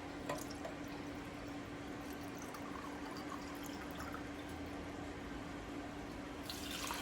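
Water being poured from a glass into a pot of sautéed rice for pilaf, a steady splashing pour that is loudest near the end.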